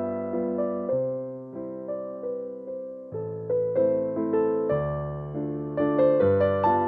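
Gentle background piano music: a slow melody of struck notes over sustained bass notes.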